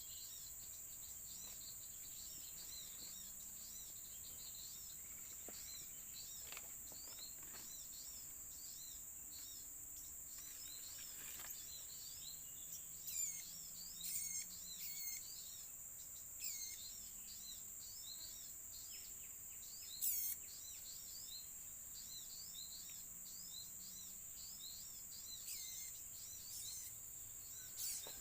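Small birds chirping in quick repeated short notes, with several louder sweeping calls in the second half. Underneath runs a steady high-pitched insect drone.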